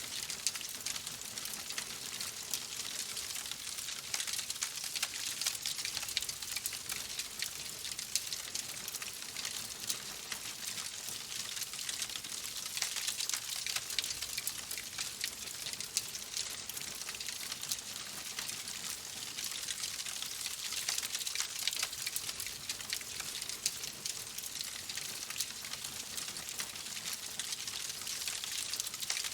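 Wood fire crackling steadily in a fireplace: a dense stream of small pops and snaps over a soft hiss.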